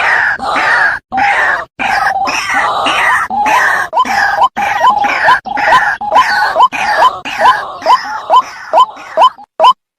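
White-breasted waterhens calling: a harsh, jumbled chorus that breaks up into a run of repeated short notes, each rising sharply, about two a second, becoming cleaner and more evenly spaced near the end.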